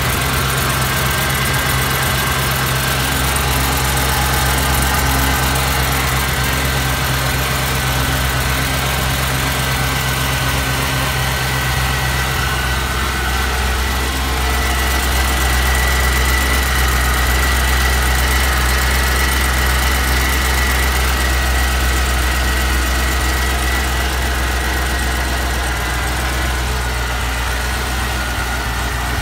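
Supercharged 6.2 L LSA V8, newly swapped into the car, idling steadily on one of its first runs, with a steady high whine over the engine note.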